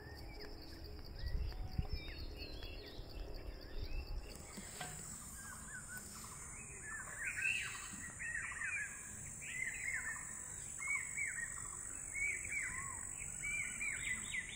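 Small birds chirping over outdoor ambience: for the first few seconds there is a low rumble with a few thumps, then a steady high-pitched tone sets in and short, quick chirps come thick and fast through the rest.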